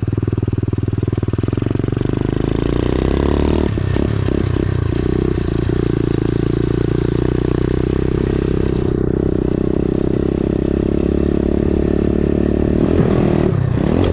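Dirt bike engine running under throttle while riding at a ramp, with the engine note changing about four seconds in and again near the end, plus some clatter.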